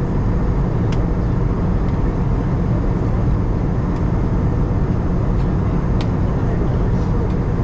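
Steady cabin noise of an Airbus A320-214 in descent, its CFM56 engines and the airflow heard as an even rush heaviest in the low range. A couple of faint clicks, about a second in and about six seconds in, sit on top of it.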